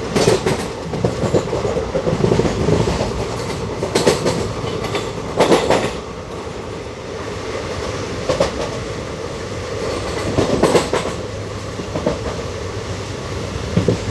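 Passenger train running along the track: a steady rolling rumble broken by irregular clickety-clack clatters of the coach wheels over rail joints, loudest about four and five and a half seconds in and again near eleven seconds.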